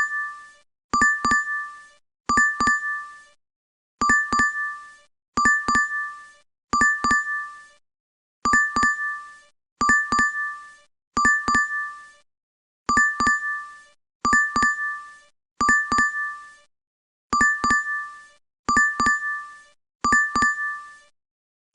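DoorDash app notification chime, looped: short, bright two-note dings repeating about every second and a half, with brief silences between.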